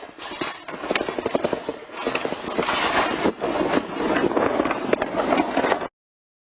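Loose objects and building fittings rattling and clattering in the shaking of an earthquake, a dense stream of sharp knocks and crackling. It cuts off abruptly near the end.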